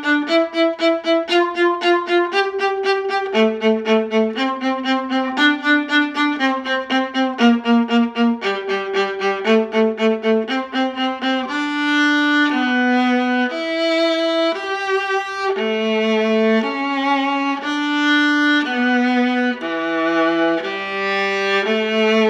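Bowed strings playing a simple beginner orchestra tune. The first half is short repeated notes, about two a second; about halfway through it changes to longer, smoother held notes.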